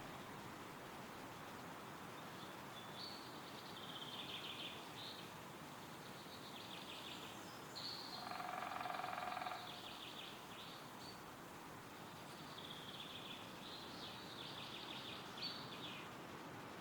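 Forest ambience: a steady wind rustling through the trees, with small birds singing short high phrases and rapid trills on and off. About eight seconds in, a louder, lower-pitched call lasts about a second and a half.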